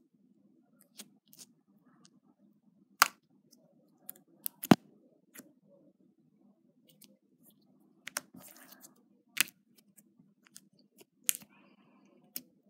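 Slime being squished and stretched by hand, giving scattered sharp pops and clicks a second or more apart, with faint crackling between some of them.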